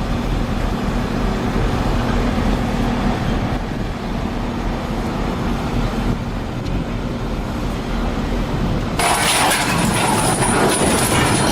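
Heavy vehicle engine running steadily. About nine seconds in it is cut off abruptly by a louder, brighter noise.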